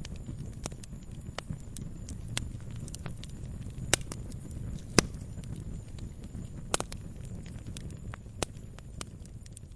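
Campfire crackling: wood burning with irregular sharp pops over a low steady rumble, the loudest pops about four and five seconds in.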